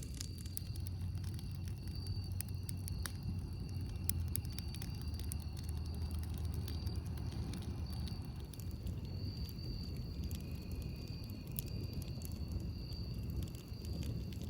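Campfire crackling, with frequent sharp irregular pops over a low steady rumble. A thin steady high-pitched tone runs underneath.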